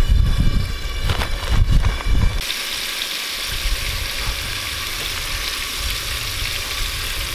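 Battered pike fillets shallow-frying in hot oil in a skillet: a steady sizzle. For the first couple of seconds a low rumble and a few light knocks sit over it as a fillet is laid into the pan. From about two and a half seconds in, only the even sizzle is heard.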